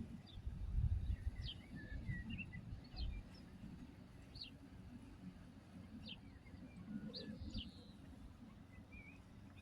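Small birds calling: scattered short chirps and quick falling notes, a dozen or so over several seconds, with a low rumbling noise underneath that is strongest in the first second or two.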